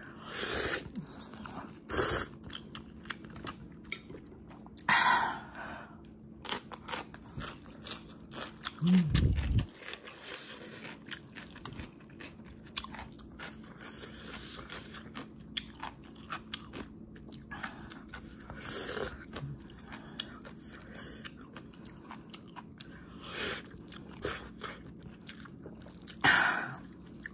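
Close-miked chewing of thick, saucy instant noodles, with wet mouth clicks throughout and several louder slurps as noodles are drawn in. There is a brief low thump about a third of the way in.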